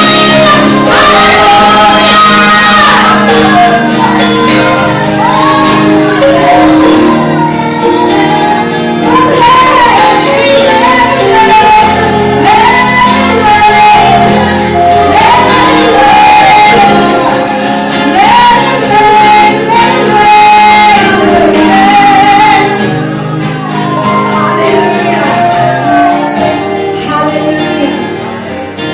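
Worship music with a singing voice carrying the melody over sustained chords, in a large hall; it grows quieter near the end.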